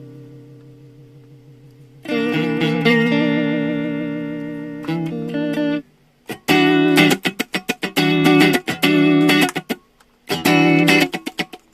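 Electric guitar, a Telecaster on both pickups, played clean through a Roland JC-90 with an Animals Pedal Car Crush Chorus/Vibe. A chord is struck about two seconds in and rings with a wavering pitch. From about six seconds in come short, choppy chords in a rhythm.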